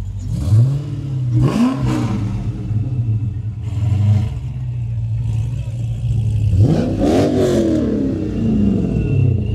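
Supercharged Mopar V8 idling with a deep steady note, blipped twice in quick succession about a second in, then revved hard around seven seconds in, the pitch rising and then falling slowly back to idle. A thin high whine comes in near the end.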